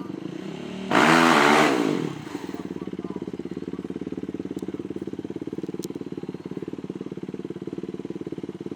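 A small engine idling steadily with a fast, even pulse. About a second in, a much louder engine rushes past for about a second, its pitch dropping, then the idle carries on alone.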